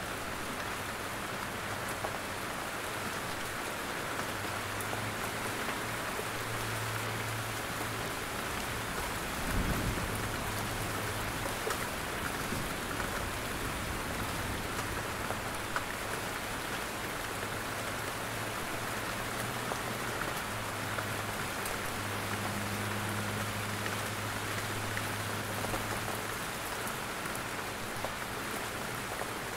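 Steady rain falling in a forest, with scattered drops pattering down from the trees. About a third of the way in there is one brief low thump.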